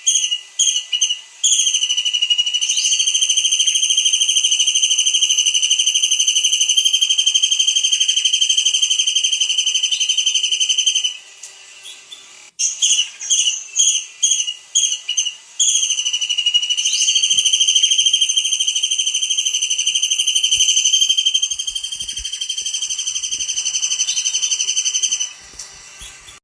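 Kingfisher (tengkek udang) song. A quick string of short sharp chirps leads into a high, unbroken trill held for about nine seconds. After a brief gap, the same phrase repeats: chirps, then another long trill.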